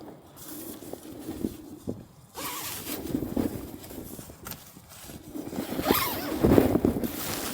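A zipper being pulled in several short runs, the last and loudest one near the end rising sharply in pitch.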